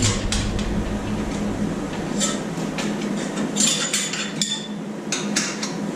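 Irregular metallic clinks and scrapes of tire spoons and a bead buddy against a dirt bike wheel rim as the tool is set in place.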